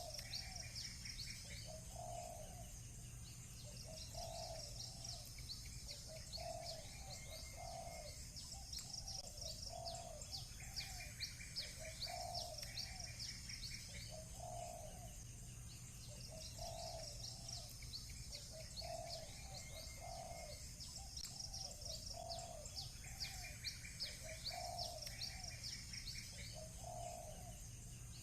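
Birdsong ambience: small birds chirping in fast runs of high, quick notes that come and go every few seconds, while a dove coos low and soft, once every second or two, over a steady low hum.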